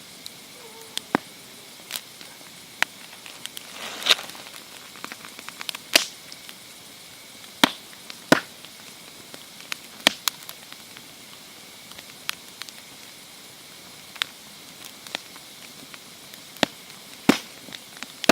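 Campfire crackling: irregular sharp pops and snaps of burning wood over a faint steady hiss, with a short louder hiss about four seconds in.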